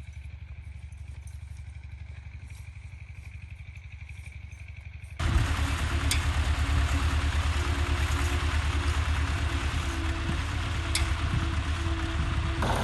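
Old tractor's engine running with a steady, even firing rhythm. It jumps abruptly much louder about five seconds in, and there are two sharp clicks in the louder part.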